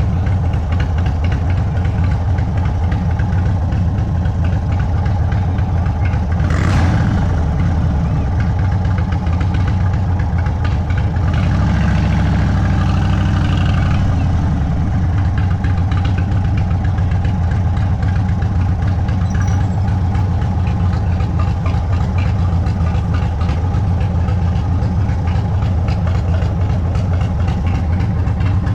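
Indian Sport Chief's Thunderstroke 116 V-twin running at low, steady revs through an aftermarket Sawicki Speed exhaust. About seven seconds in there is a brief, sharp noise. From about eleven to fourteen seconds the engine note shifts briefly before settling back.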